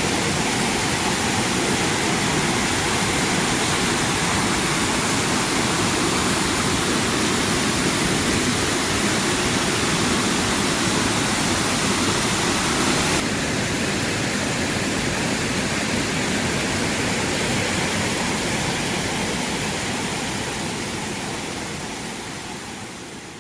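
Waterfall rushing, a steady full roar of falling water that shifts slightly about 13 seconds in and then fades out near the end.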